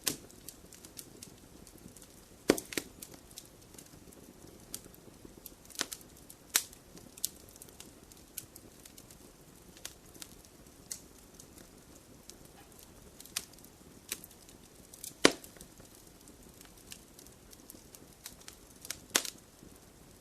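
Wood fire crackling in a fireplace: a low steady hiss of burning with scattered sharp pops and snaps, the loudest about two and a half seconds in, at about six seconds, at fifteen seconds and near the end.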